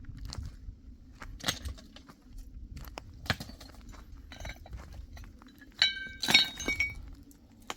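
Scattered knocks and clatter of objects being handled, with a short burst of ringing clinks, like metal or glass struck together, about six seconds in.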